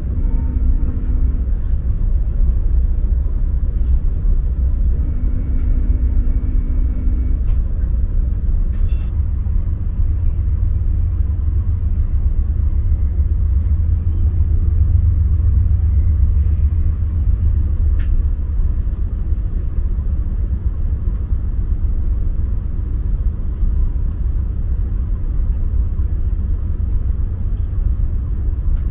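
VIA Rail passenger train running, a loud, steady low rumble heard from inside the passenger car.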